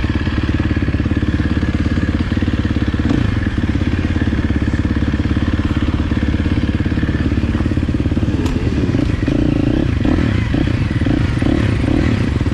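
Motocross bike engine running close to the microphone, a fast, even stream of firing pulses held at a steady level.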